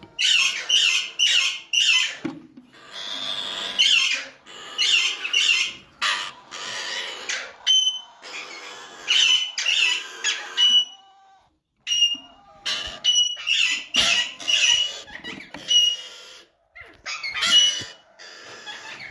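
Alexandrine ('raw') parakeets squawking in repeated harsh bursts, with short whistled notes between them and a few brief pauses.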